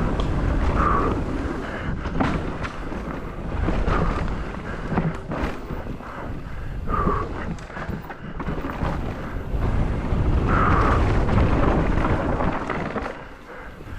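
Wind buffeting the microphone during a fast downhill mountain-bike descent, a heavy low rumble with scattered knocks and rattles from the bike.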